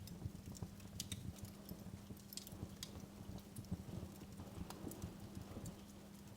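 Wood fire crackling in a fireplace: scattered sharp pops and snaps over a low steady hum.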